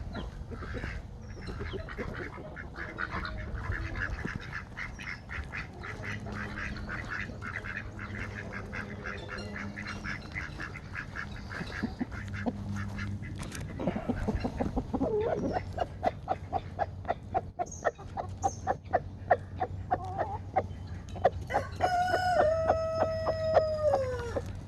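Backyard poultry calling and clucking over feed, with a fast run of repeated calls in the second half. Near the end comes one long, drawn-out call that falls in pitch as it ends.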